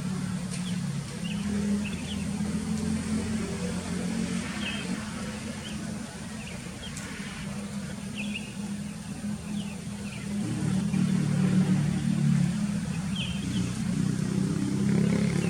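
A steady low motor hum, louder from about ten seconds in, with short high bird chirps every second or two, from sooty-headed bulbuls.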